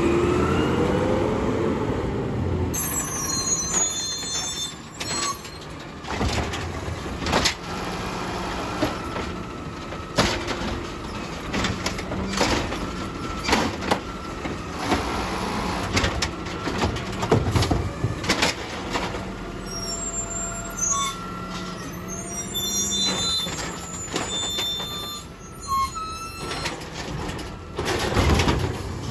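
Garbage truck at work collecting bins. Its engine revs up at the start, then a run of clanks and knocks comes over a steady mechanical tone, with short high squeals now and then.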